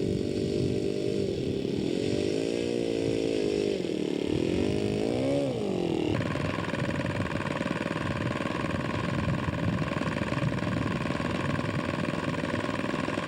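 Model airplane glow engine running, its pitch wavering up and down as the throttle changes. About six seconds in, the sound cuts abruptly to a different, steadier engine drone.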